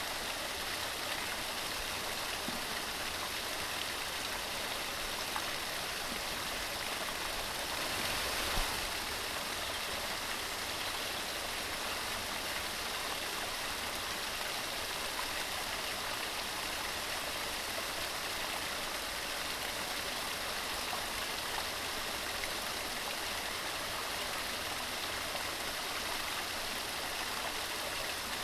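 Mountain stream running steadily over rocks, an even rushing and splashing of water, with one brief louder surge about eight seconds in.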